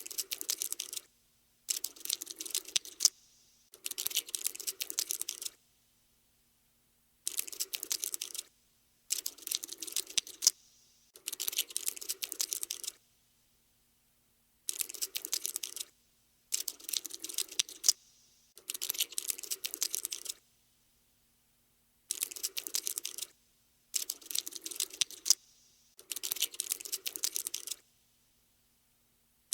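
Cockroach scuttling sound effect: bursts of rapid, scratchy clicking, each one to two seconds long, with short silences between, about a dozen times.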